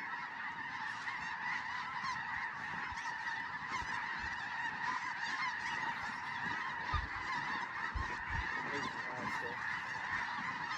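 A large flock of snow geese calling: a dense, continuous chorus of overlapping high-pitched honks, with a few faint low bumps about two-thirds of the way through.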